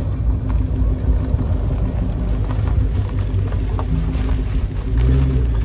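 Car engine running with a steady low rumble, growing louder briefly near the end.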